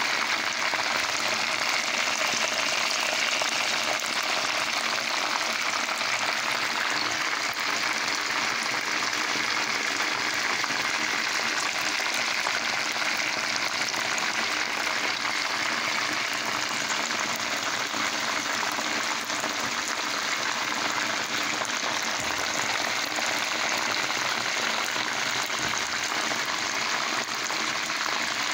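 Chicken leg pieces deep-frying in hot oil: a steady, dense sizzle and crackle of bubbling fat.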